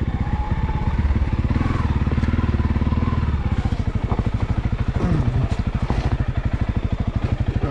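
Honda CRF300L's single-cylinder four-stroke engine idling with a steady, even pulse, a little heavier for the first three seconds or so.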